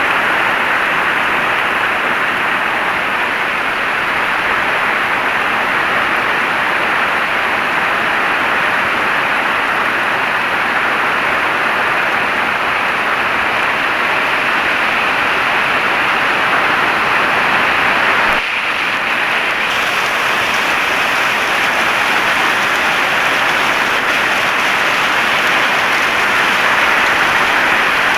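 Heavy rain falling, a steady dense hiss with a brief dip about two-thirds of the way through.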